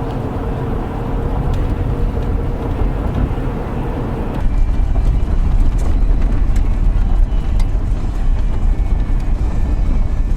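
A vehicle driving, with a steady low engine and road rumble. About four and a half seconds in, the rumble gets louder and rougher and a faint steady hum drops out.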